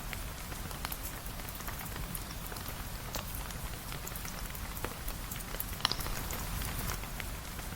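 Steady rain, an even hiss with scattered sharp drip-like ticks, the loudest about six seconds in.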